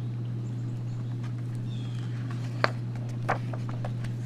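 Outdoor field recording: a steady low hum with two sharp clicks, one about two and a half seconds in and another near three and a half seconds, and a faint bird chirp just before them.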